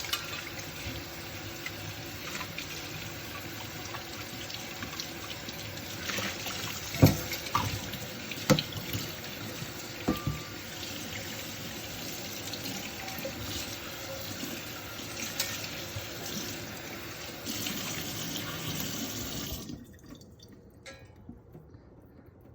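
Water running from a kitchen tap into a sink while dishes are washed, with a few sharp clinks of dishes. The running water stops suddenly near the end.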